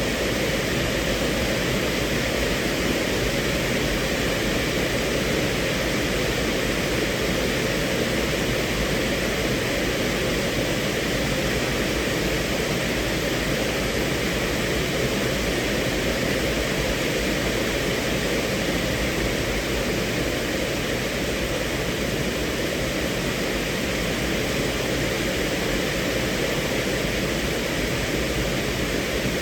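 Steady rain drumming on a car's roof and windows, heard from inside the cabin as an even, unbroken hiss.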